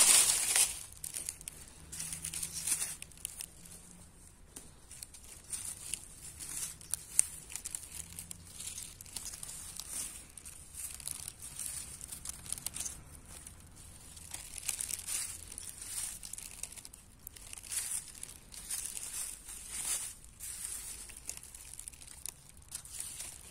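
Irregular close-up rustling and crinkling of leaves and plants being handled, with small tearing sounds, as wild greens are picked from among fallen leaves.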